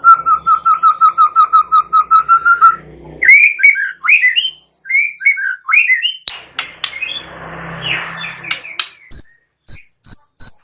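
White-rumped shama (murai batu) singing a varied song: a fast run of evenly repeated notes for about three seconds, then swooping whistled phrases, a harsh rasping stretch past the middle, and quick repeated high notes near the end.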